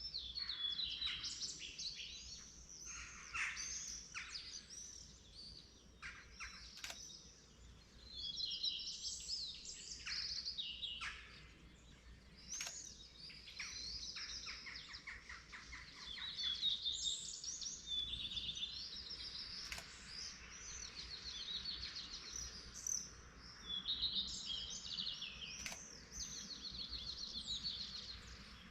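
Morning chorus of several songbirds singing at once: overlapping chirps and rapid runs of repeated notes that come and go in waves, over a faint low background hum.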